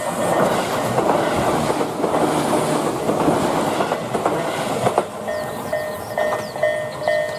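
Tobu 8000 series electric train passing over a steel railway bridge: a heavy rumble with wheels clacking over the rail joints, thinning out after about five seconds. A repeating electronic ding, under twice a second, comes in near the end.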